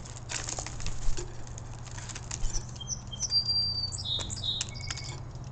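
Starlings giving a run of short, clear whistled notes at steady pitch about midway, amid scattered clicks and rustles.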